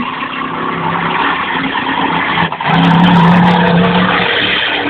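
Big monster truck's engine running hard at high revs, with a brief drop about two and a half seconds in before it comes back louder.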